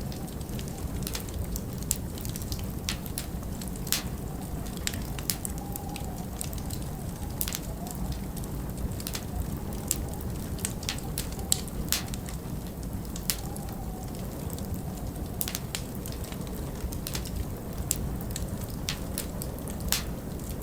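Wood fire crackling, with irregular sharp pops and snaps over a steady low rush of wind.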